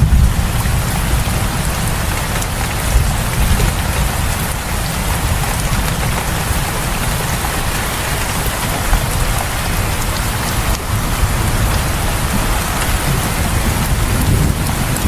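Steady rain falling, a dense even patter, with a low rumble underneath.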